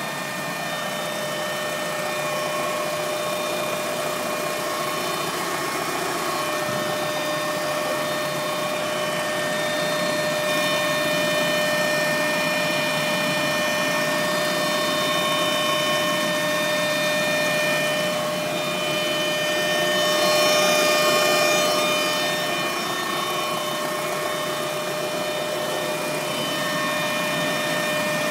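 Mk1 Volkswagen Golf Cabriolet engine running, with a steady high-pitched whine whose pitch holds level and grows briefly louder about twenty seconds in. The whine is an unidentified noise that the owner places at the rear of the engine bay.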